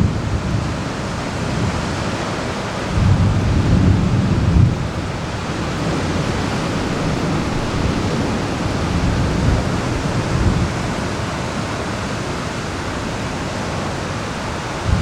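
Steady hiss of heavy rain during a thunderstorm. A low rumble of thunder swells about three seconds in and dies away about two seconds later.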